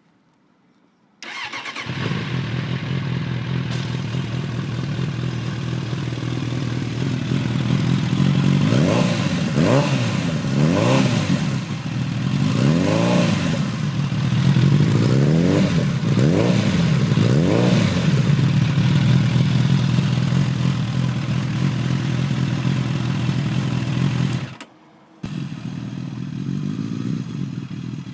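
Suzuki GSX 750 Inazuma's inline-four engine running through a Mass Titan Tromb aftermarket muffler with its dB killer left in. The engine comes in abruptly about a second in and idles, then is revved in a series of about six throttle blips, each rising and falling in pitch, and settles back to idle. Near the end the sound breaks off briefly and comes back quieter.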